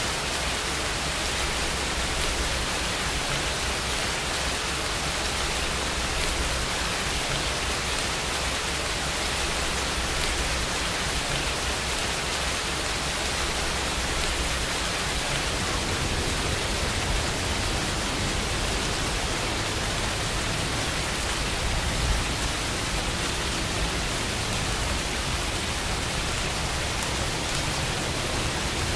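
Steady rain falling, an even unbroken hiss with a low rumble underneath.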